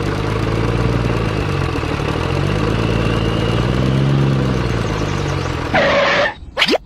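Engine running with a steady low throb. Its pitch sags about two seconds in, climbs again and then eases off. Near the end a short loud burst of noise cuts in, followed by a quick upward-gliding squeak.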